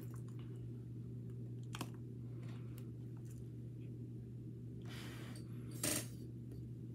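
A person chewing a bite of pastry, with soft mouth clicks and smacks over a steady low hum. A brief louder noise comes about six seconds in.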